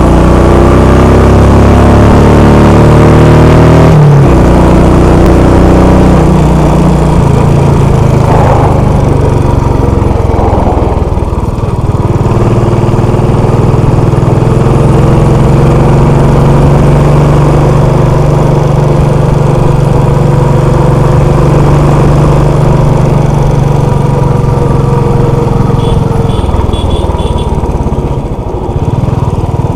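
Royal Enfield Classic 500's single-cylinder engine running loud and steady while the bike is ridden. Its pitch climbs over the first few seconds, drops sharply about four seconds in, then holds fairly even, with another brief dip near the end.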